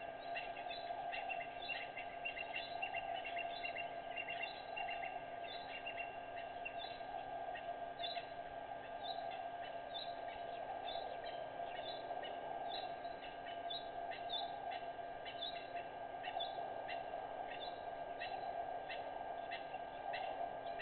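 Small birds chirping in short, repeated high notes, several a second, over a steady background hum.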